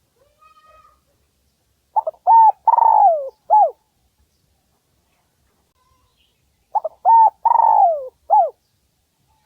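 Spotted dove cooing: two phrases of its call about five seconds apart, each a couple of short coos, a long falling coo and a short closing coo.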